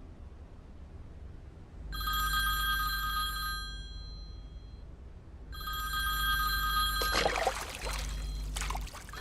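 Mobile phone ringtone ringing in two spells, about two seconds and then about three, from a phone with a hydrophobic coating that has just been dropped in a toilet: it still works. A short noisy rush sounds during the second ring.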